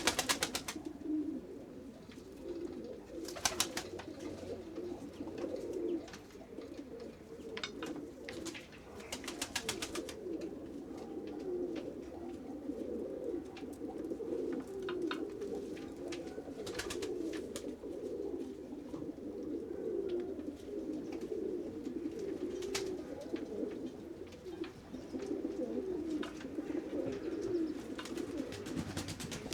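A flock of pigeons cooing continuously, many low calls overlapping. Bursts of rapid sharp clicks come through now and then.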